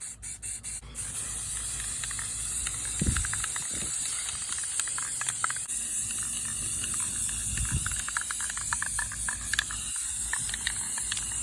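Aerosol spray paint can: a quick run of rattling clicks about a second in, then a steady spraying hiss.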